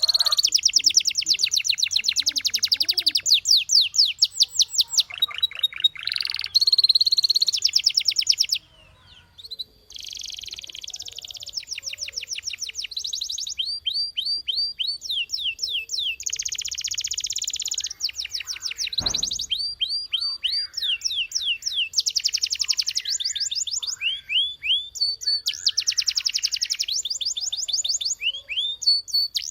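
Domestic canary singing: long trills of rapid repeated notes, some sweeping and some held on one pitch, changing from phrase to phrase, with a brief pause about nine seconds in.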